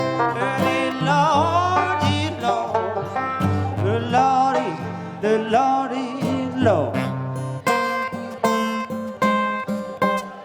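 Acoustic guitar and banjo playing an instrumental delta blues passage, with notes bent and slid in pitch and a falling slide about six and a half seconds in, then repeated strummed chords near the end.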